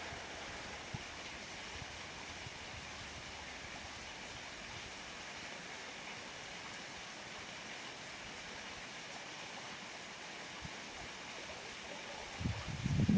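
Steady, even rushing of water. Low thumps and rumbling come in near the end.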